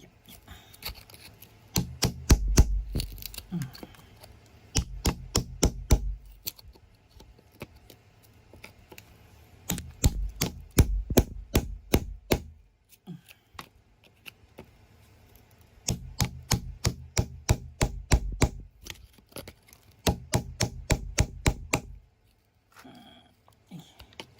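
Rapid bursts of sharp taps, about five a second, from a metal hand tool striking and chipping at rock and hard earth, with dull thuds beneath and short pauses between bursts.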